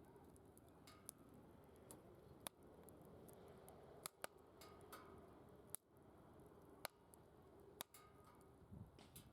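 Faint crackle of a wood fire burning in a secondary-combustion fire pit, with sharp, irregular pops from the burning wood over a low steady hiss.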